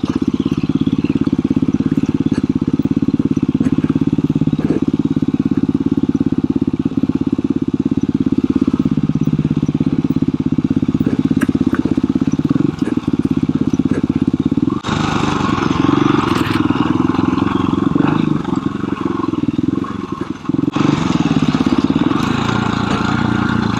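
KTM 350 EXC-F dirt bike's single-cylinder four-stroke engine running at steady low revs on a rough trail, its pitch shifting about nine seconds in. Past the halfway point a rushing hiss of wind or tyre noise joins it twice.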